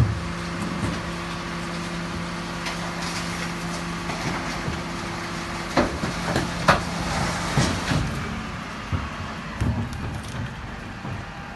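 Garbage truck running with a steady drone that drops away about eight seconds in, with several sharp knocks and bangs in the middle.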